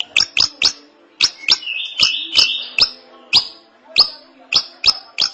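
A drongo (srigunting) singing: a quick series of about a dozen sharp, down-slurred notes, with a harsh buzzy phrase between them about two seconds in.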